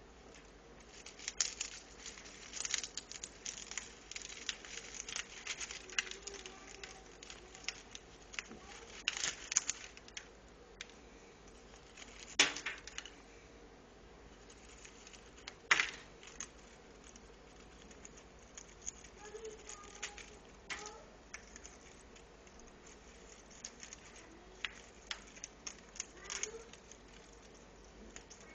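African grey parrot chewing and tearing at a chew toy to get at a peanut inside: busy bursts of crackling and clicking, two louder snaps near the middle, then sparser clicks.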